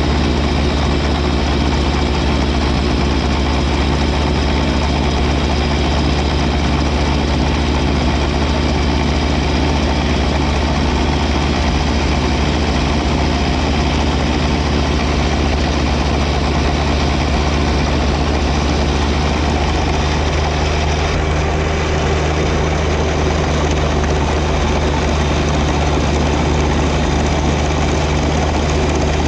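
John Deere 1025R compact tractor's three-cylinder diesel engine running steadily under load while powering a 54-inch front snow blower, a constant deep drone with no breaks.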